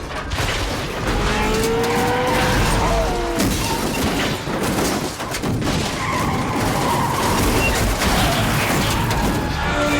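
Movie car-chase sound effects: car tyres squealing and skidding over the running of engines, with several sharp crashes and impacts.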